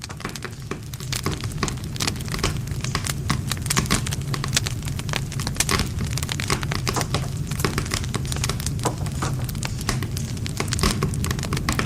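Wood campfire burning, with dense, irregular crackling and popping of burning wood over a steady low rumble of the flames.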